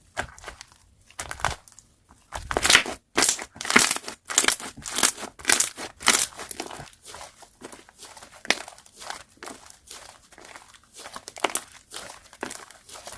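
Slime being worked by hand, crackling and crunching in a quick run of squeezes and presses, loudest in the first half.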